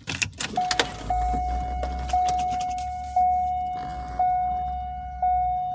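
A few clicks and rattles of keys and the ignition, then a Corvette's warning chime striking about once a second, each chime ringing on and fading before the next, over a low hum: the warning for the key in the ignition with the driver's door still open.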